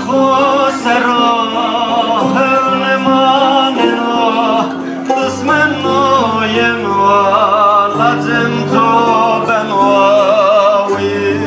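A man singing a slow, heavily ornamented melody with wide vibrato over instrumental accompaniment with long held bass notes.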